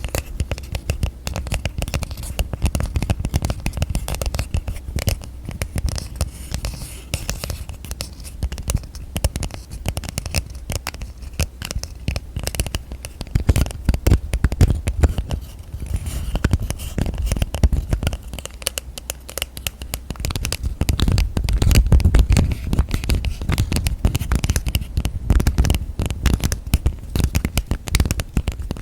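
Rapid, continuous tapping and scratching by fingers on hard objects, a dense stream of small clicks. There are heavier low knocks about halfway in and again a little past two-thirds of the way.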